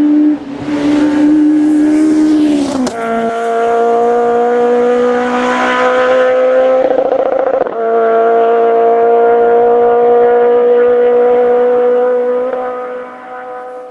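Citroën Saxo Kit Car's four-cylinder rally engine running at high, nearly steady revs. Its note dips briefly about three seconds in, then holds steady and fades out near the end.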